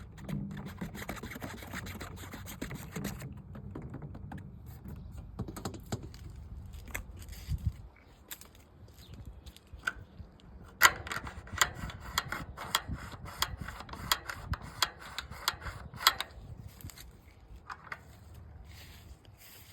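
Scratching on a hard surface for the first few seconds, then a run of quick, sharp taps, several a second, from about eight seconds in until about sixteen.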